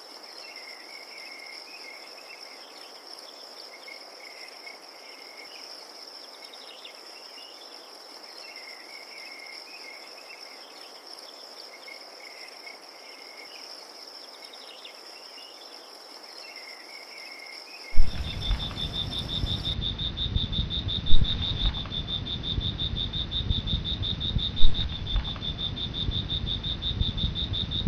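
Crickets calling: a steady high trill with softer intermittent chirps beneath it. About 18 seconds in it cuts abruptly to a louder recording of a rapidly pulsing cricket over a low rumbling noise, with a few sharp knocks.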